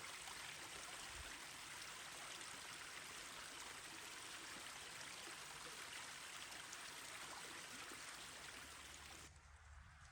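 River water flowing with a soft, even rush. The rush cuts off abruptly about nine seconds in, leaving a quieter low hum.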